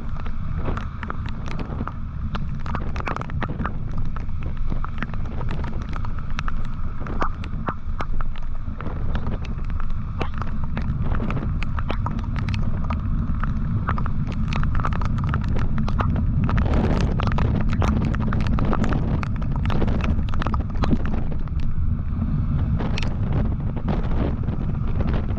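Wind buffeting a camera microphone on a moving motorcycle, a steady low rumble under engine and road noise with a faint steady whine. Many sharp clicks and taps run through it, and the noise thickens for a few seconds past the middle.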